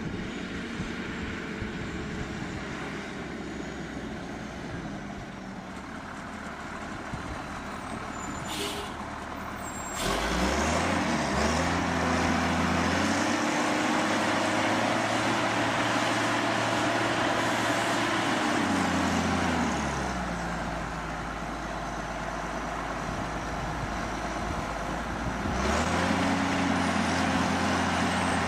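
Heavy machine's engine running, revving up about ten seconds in, holding at high speed for several seconds and dropping back near twenty seconds, then revving up again near the end.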